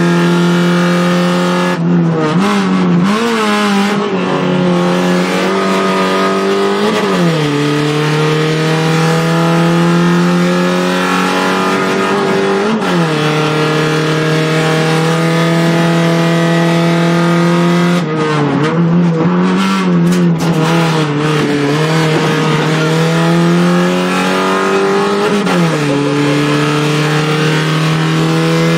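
Fiat Punto Cup rally car's engine heard from inside the cabin, pulling hard with its pitch climbing steadily through each gear and dropping sharply at each upshift, several times. Twice the revs waver up and down unevenly, once near the start and once about two-thirds of the way through.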